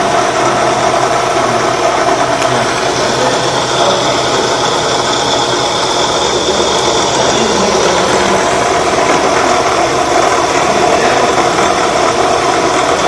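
Homemade battery charger built around a washing machine motor, running steadily with a loud, even mechanical noise.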